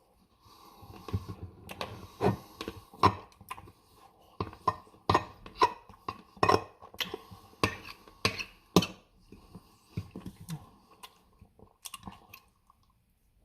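Close-miked chewing and wet mouth smacks while eating Dairy Queen Reese's Blizzard ice cream cake, with a run of sharp clicks that is thickest in the middle and thins out near the end.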